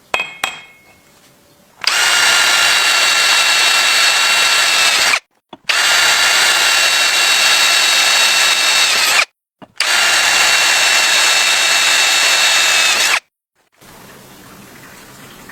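Handheld electric drill run three times, about three and a half seconds each, its motor whining at a steady pitch and stopping abruptly between runs. A couple of clicks come just before the first run.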